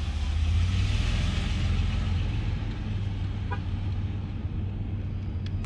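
Vehicle engine running, a steady low rumble heard from inside the cab, with a swell of broader noise in the first couple of seconds.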